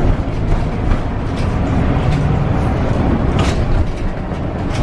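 Scania K320UB bus running along the O-Bahn guided busway: a steady rumble of engine and road, with a few short rattles and clicks.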